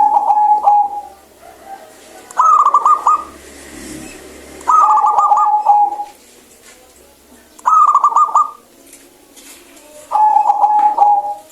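Zebra dove cooing: five phrases two to three seconds apart, each a rapid stuttering run of notes, some ending in a clear held note.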